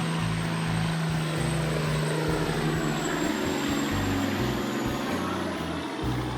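Loaded log truck driving on the road: steady engine hum with tyre and road noise, holding an even level.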